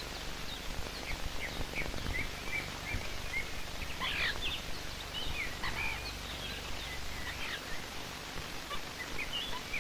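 Small songbirds chirping: a run of short, high chirps throughout, with a few louder calls about four and six seconds in, over a steady hiss.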